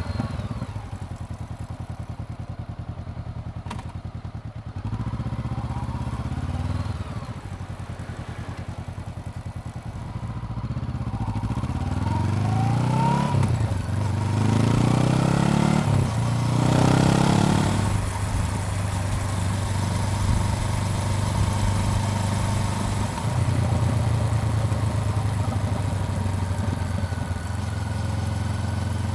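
Honda CBR400R's parallel-twin engine under way, running low at first, then revving up several times in quick rising sweeps about halfway through as it accelerates through the gears, and settling into a steady, louder cruise.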